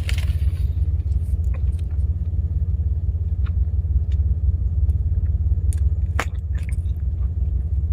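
Steady low rumble of a truck's engine and road noise heard from inside the cabin while driving, with a few faint clicks, the clearest about six seconds in.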